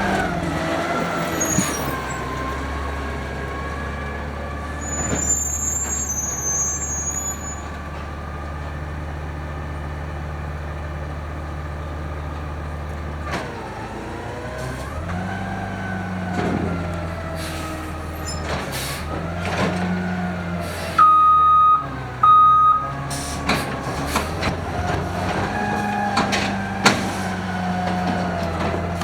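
Automated side-loader garbage truck's engine running, its speed rising and falling as the hydraulics work, with several sharp knocks and clanks from the arm and cans. Two short, loud beeps sound about three quarters of the way through.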